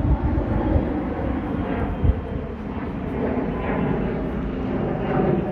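Bombardier BD-700 twin-engine business jet climbing away after a go-around: a steady jet engine rumble, with a couple of low thumps from wind on the microphone near the start and about two seconds in.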